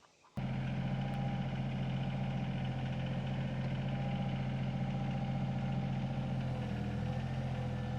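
Diesel engine of a piece of heavy equipment running at a steady speed. It cuts in abruptly a moment in and holds an even, unchanging pitch.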